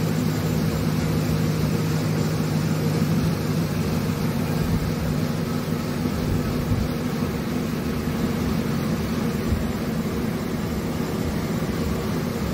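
Chevrolet Avalanche 5.3-litre V8 idling steadily as its transmission pump pushes fluid out of the cooler return line, which runs in a steady stream into a plastic jug during a transmission flush.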